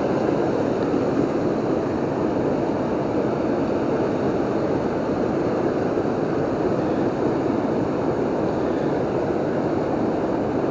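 Steady rushing of a river waterfall: an even, unbroken noise.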